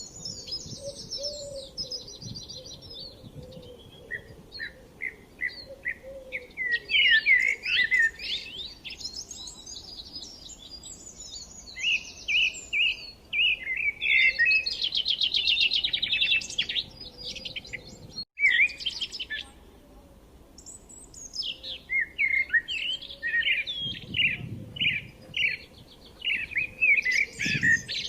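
Songbirds chirping and twittering, several calls overlapping, with fast trills and runs of short repeated notes. The sound drops out completely for an instant about two-thirds of the way through.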